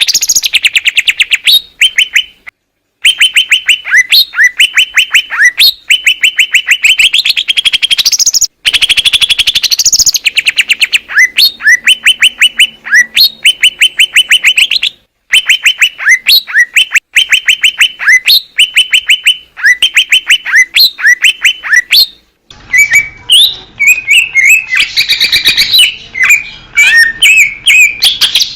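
Leafbird (cucak ijo) singing: loud, fast runs of rapidly repeated chattering notes in short phrases, broken by abrupt edits between recordings. About two-thirds of the way through, a different recording takes over with more varied whistled notes and slides over a background hiss.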